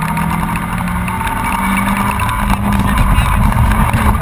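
Honda Civic 1.3's four-cylinder engine running hard under load, heard from inside the cabin with heavy road and tyre rumble. The engine note steps up in pitch about a second and a half in and gets louder toward the end.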